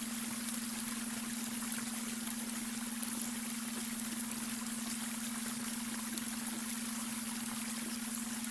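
Babbling brook: a steady rush and trickle of flowing water. Underneath runs one steady low-pitched tone, the beta brainwave frequency layered into the water.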